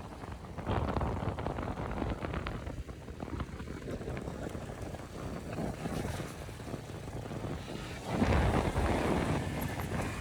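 Wind buffeting the microphone of a moving motorcycle, with a low vehicle rumble underneath. It gets louder about eight seconds in.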